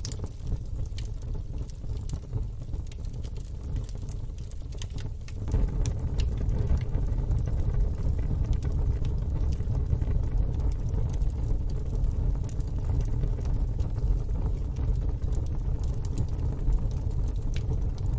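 Wood fire in a fire pit crackling with scattered sharp pops, over a steady low rumble that gets louder about five seconds in.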